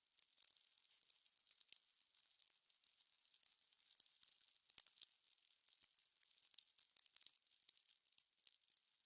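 Fire crackling: a soft hiss with frequent small, irregular pops and snaps, and a cluster of louder snaps about five seconds in.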